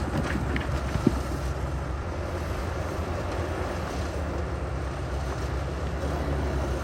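Heavy diesel earthmoving machinery running steadily with a deep rumble, with one sharp knock about a second in.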